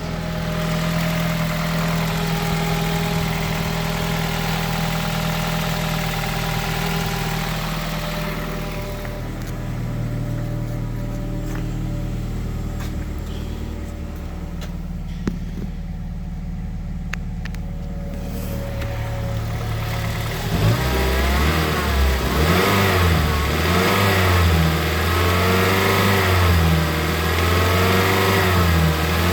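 The engine of a 2012 Mazda 6 with 172,000 miles, being run to test it. It idles steadily for about twenty seconds, then is revved up and down repeatedly in short blips.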